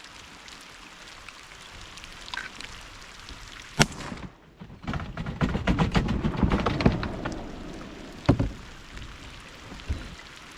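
Rain pattering steadily, then a single sharp shotgun shot a little under four seconds in. A few seconds of jumbled knocks and rustling follow, with another sharp crack a little after eight seconds.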